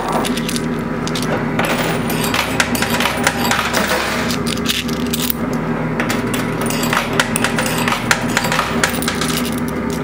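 Quarters clinking and clattering in a coin pusher arcade machine: many quick, irregular metallic clicks over a steady machine hum.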